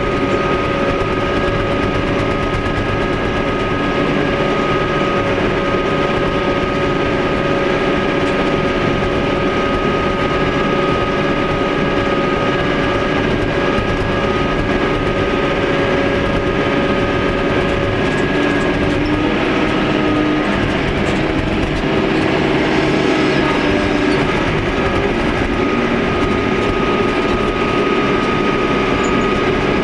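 Engine of a moss-pushing farm machine running steadily under load, heard from inside its cab, with several steady whining tones over the engine noise.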